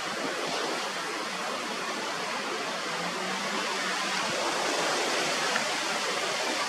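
Steady rushing noise of strong wind on the microphone, even and unbroken.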